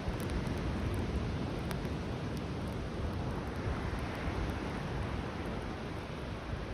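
Surf washing steadily on a beach, with a wood campfire crackling in small, scattered pops.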